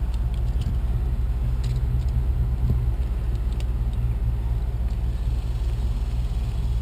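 Steady low mechanical hum or rumble, with a few faint light clicks about two to four seconds in.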